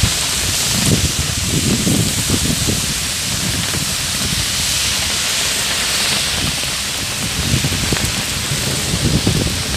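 Heavy rain pouring onto a wet road, a loud steady hiss, with low rumbling in the first few seconds and again near the end.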